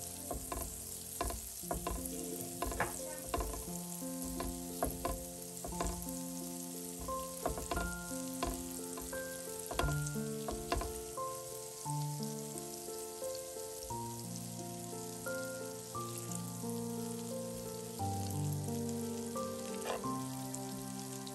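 Food frying and sizzling in a pan, with scattered knocks of a utensil stirring it. Background music with slow held chords plays over it.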